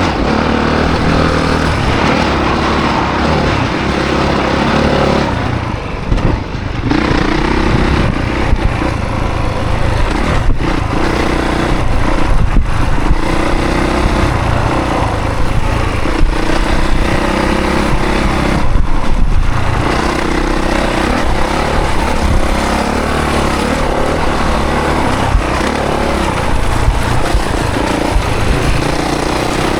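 Honda CRF450 dirt bike's 450 cc single-cylinder four-stroke engine being ridden hard, revving up and falling back over and over as the throttle opens and closes, with short throttle chops about six seconds in and again near nineteen seconds.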